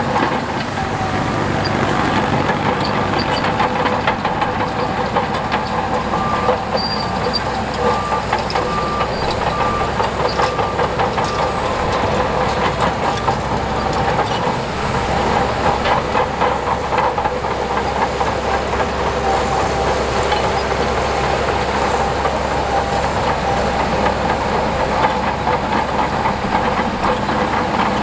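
Heavy earthmoving machinery running steadily at a worksite: diesel engine noise with constant metallic clanking and knocking. A series of short, evenly spaced beeps sounds for several seconds in the first half.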